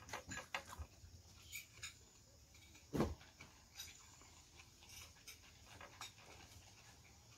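Close-miked chewing and mouth sounds of a person eating: quiet wet smacks and clicks, thickest in the first two seconds, with one louder thump about three seconds in.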